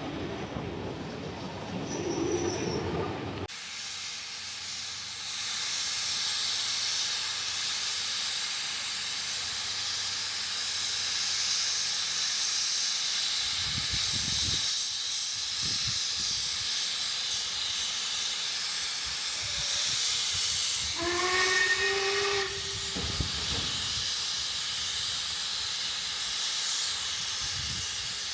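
Steam locomotive standing and hissing steam steadily, after a few seconds of low train rumble at the start. About 21 seconds in, its steam whistle sounds once, a short note rising slightly in pitch.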